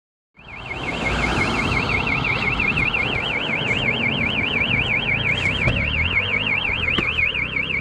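Car alarm siren sounding with a fast warbling tone over engine and road rumble. The alarm has armed itself when it should not, which annoys the driver.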